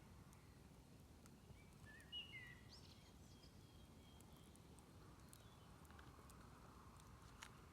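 Faint, sparse crackles from a smoky, smouldering campfire over a low outdoor rumble, with a bird chirping briefly about two seconds in.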